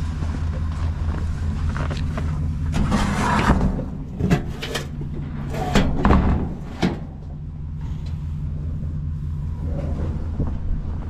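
Knocks, clatter and rustling of objects being handled, with a cluster of sharp knocks about a third of the way in, over a steady low rumble.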